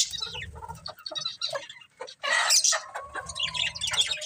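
Budgerigars chirping and chattering: a rapid jumble of short high calls, with a louder harsh squawk a little after two seconds in and a held whistled note just after. A low rumble comes and goes underneath.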